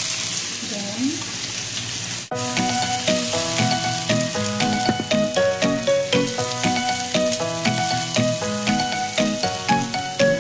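Chicken sizzling in a frying pan as it is stirred with a wooden spoon, then about two seconds in the sound cuts to background music, a melody of short plucked-sounding notes.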